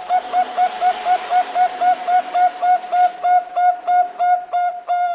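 Zebra dove (perkutut bangkok) calling: a fast, even run of short cooing notes on one steady pitch, about four a second.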